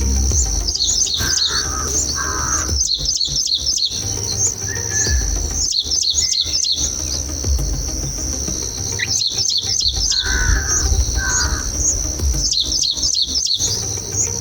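Bulbul chicks in the nest give high, rapid begging chirps in about five bursts of a second each, over a steady high insect drone, with a few lower calls between the bursts.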